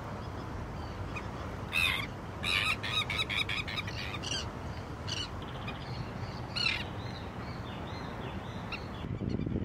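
Seabird calls over a steady wash of wind and water: one call a little under two seconds in, a quick run of repeated calls around three seconds, then single calls spaced out over the next few seconds.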